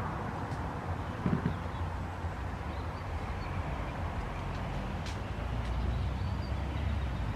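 Car engine idling through its exhaust: a steady low rumble that swells a little toward the end.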